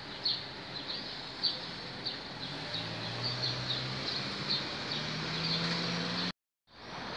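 A small bird chirping over and over, short high chirps every half second or so, over outdoor street noise. A low steady hum, like an engine, joins about three seconds in, and the sound cuts out completely for a moment near the end.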